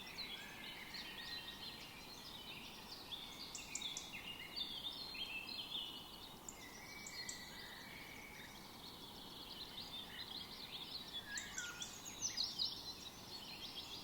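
Birds chirping and trilling, several at once, in a dense overlapping chorus over a faint steady hiss, busiest around four seconds in and again near the end.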